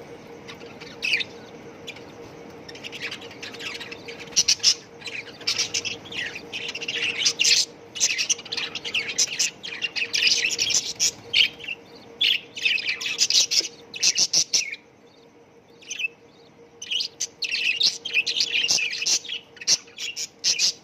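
A cage full of budgerigars chattering and chirping in a dense, rapid flock chorus, with a brief lull about three-quarters of the way through.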